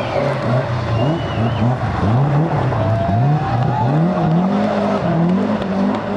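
Rally car engine revving hard, its pitch rising and falling again and again in quick succession as the throttle goes on and off.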